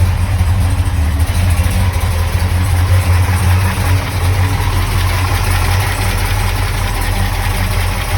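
1968 Dodge Charger's 440 big-block V8 idling steadily on a light warm-up.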